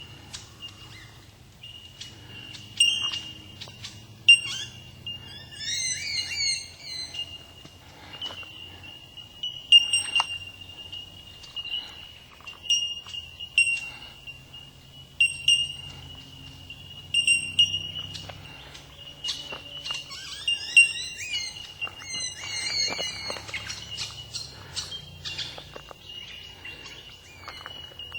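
Bellbirds calling in a chorus: an almost unbroken, high, bell-like ringing of repeated notes, with bursts of quick warbling song about six seconds in and again past twenty seconds.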